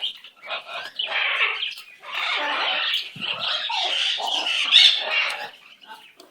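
Pet bird giving harsh, raspy squawking chatter in several stretches over about five seconds, loudest near the end.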